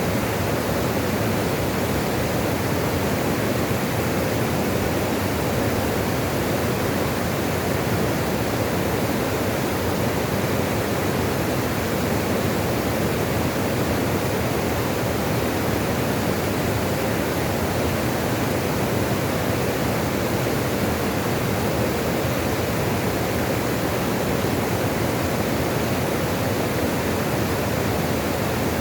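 Flowing water rushing in a steady, unbroken wash with no changes.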